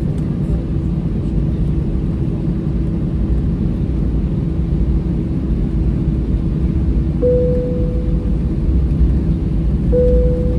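Airbus A320-214 cabin noise: a steady low rumble with an even hum from its CFM56 engines and systems as the airliner readies for takeoff. Two short single-note chimes sound near the end, each fading away.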